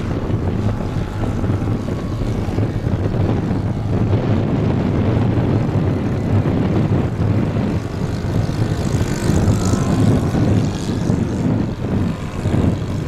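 Radio-controlled model floatplane's engine droning as it flies, growing louder and shifting in pitch about two-thirds of the way through as it passes, over heavy wind buffeting the microphone.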